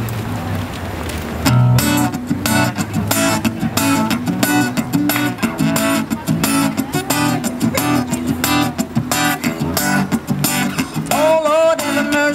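Guitar strummed in a quick, steady rhythm, starting about a second and a half in as the intro to a song; a singing voice comes in near the end.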